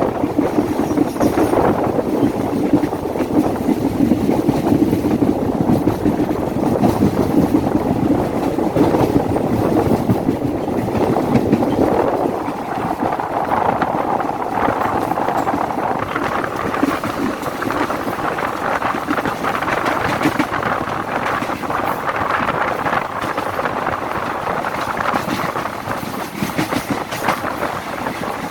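A train running past on the track: a continuous rumble and clatter of wheels on rails, the sound shifting brighter and higher about twelve seconds in.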